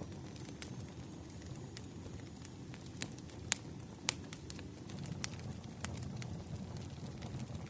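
Wood fire crackling: irregular sharp pops and snaps, a couple of them louder about halfway through, over a low steady rumble of the burning.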